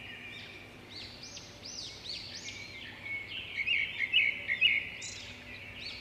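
Birds chirping in a series of quick rising-and-falling calls, with a louder flurry of sharp chirps from about three and a half to five seconds in.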